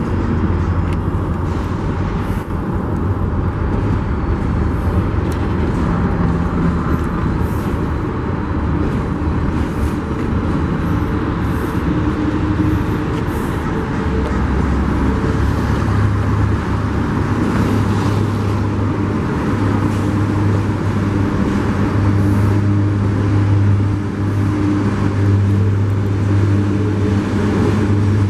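Union Pacific freight train rolling past: a steady, loud rumble with a low hum and scattered light clicks.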